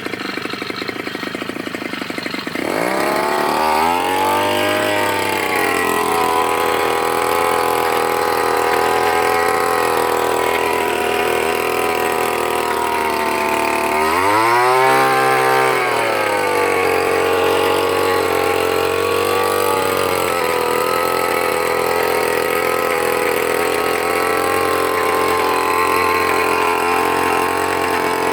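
Brush cutter engine driving a rotary tiller head, revving up sharply about two and a half seconds in and then running steadily at high speed. Around halfway through the revs surge briefly and settle back.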